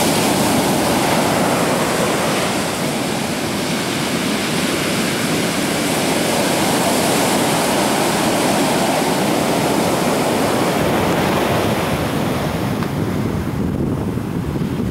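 Ocean surf: breaking waves washing up the shore in a steady rushing wash, with some wind on the microphone.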